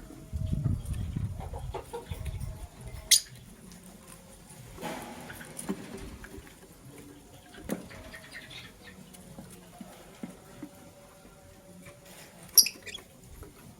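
Lovebirds scratching, pecking and scuffling about, with two short, sharp, piercing chirps, one about three seconds in and one near the end. A low knocking rumble runs through the first couple of seconds.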